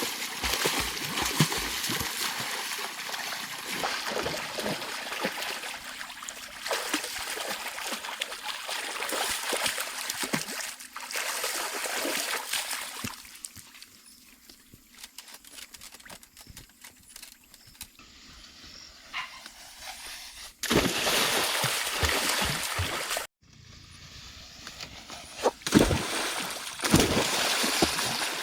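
Water splashing and trickling, with many small wet spatters, broken by a few abrupt cuts in the sound.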